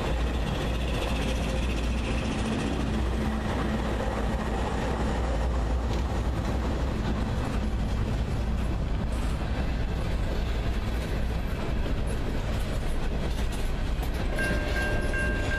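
Norfolk Southern freight train of empty coal cars rolling past, a steady, loud rumble of wheels on rail. Near the end a set of clear, chime-like tones sets in.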